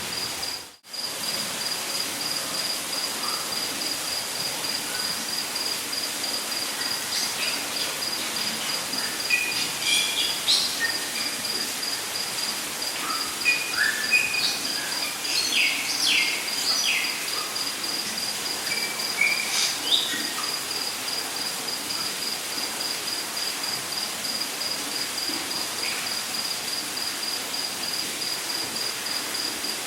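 Rainforest ambience: an insect trills steadily in fast, even pulses at one high pitch, over an even hiss of falling water. Birds call in short chirps and whistles from about 7 to 20 seconds in. The whole sound cuts out briefly about a second in.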